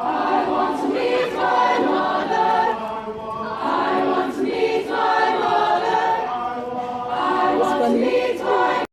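School choir singing a song together in many voices, with long held notes; it starts and cuts off abruptly.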